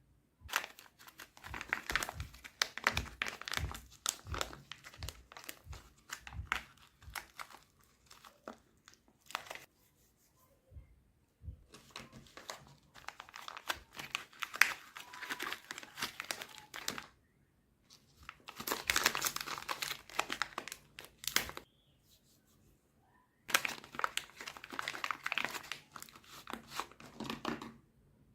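Crinkling, crackling rustle in four bursts of a few seconds each, with short pauses between.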